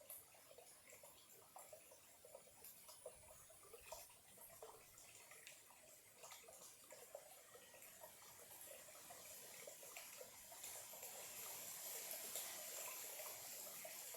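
Faint trickle of a small, shallow stream: a steady patter of little gurgles and splashes with scattered sharp ticks, a little louder toward the end.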